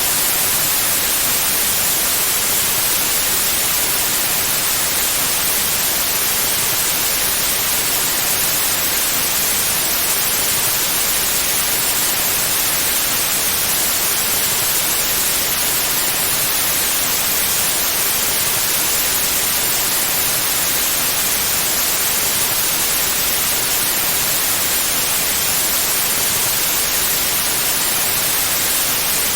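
Pure white noise: a steady, even hiss that does not change, with the most energy in the treble.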